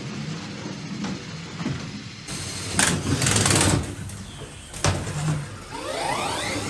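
Small electric drive motors of Lego combat robots whining under clattering impacts of plastic bricks. The loudest clatter comes about three seconds in, with a sharp hit near five seconds, and a motor whine rises in pitch near the end.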